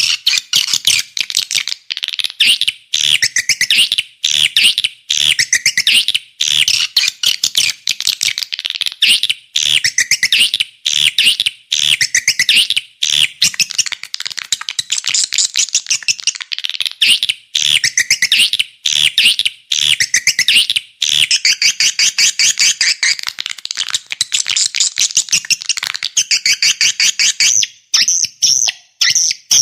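Swiftlet calling recording (walet lure sound): dense, fast trains of high chirps and twitters, repeated phrase after phrase with short gaps, used to draw swiftlets into a nesting house.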